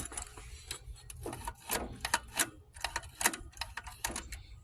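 A quick, irregular run of sharp clicks and taps over a faint low hum.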